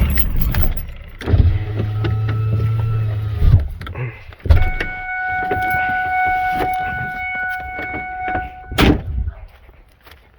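A small vehicle's motor running in short stretches, stopping and starting, then a steady high whine for a few seconds, ending in a loud knock near the end.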